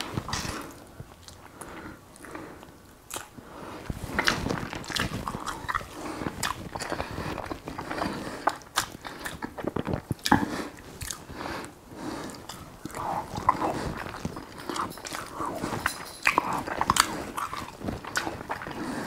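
A person chewing mouthfuls of sea bream picked off the plate by hand, with irregular wet mouth clicks and smacks throughout.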